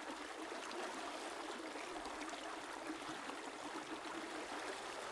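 River water flowing over rocks: a steady, even rush and babble.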